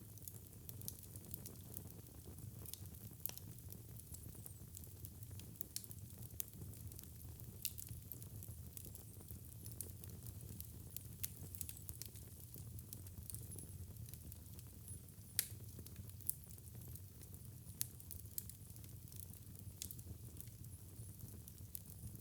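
Wood fire in a fireplace crackling, with irregular sharp pops over a steady low rumble of the burning; one louder pop about fifteen seconds in.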